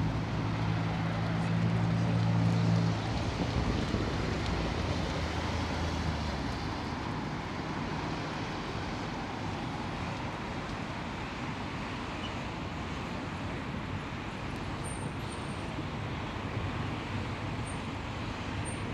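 Street traffic noise, with a vehicle engine's low steady hum near the start that fades away within the first few seconds.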